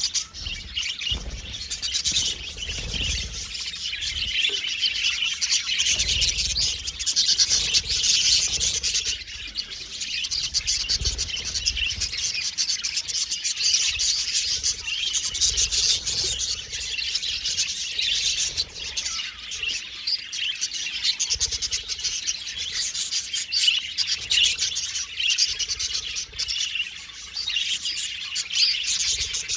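Budgerigars chirping and warbling continuously, a dense run of rapid high-pitched chatter from several birds.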